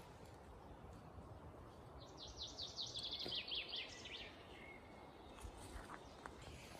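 A songbird sings one fast trilled phrase of short descending notes, about two seconds long, ending on a lower note about four seconds in. Under it runs a faint steady low rumble.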